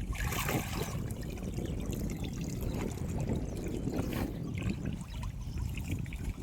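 Water splashing and trickling, with two louder splashes, about half a second in and about four seconds in.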